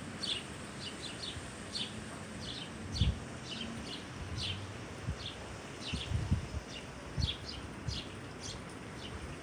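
Small birds chirping in the trees, short high chirps repeating about twice a second, over a steady outdoor hiss. A few low gusts of wind buffet the microphone partway through.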